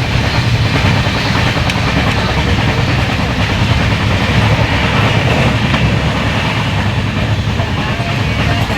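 Train running along the railway track, a steady loud rumble of wheels on rails.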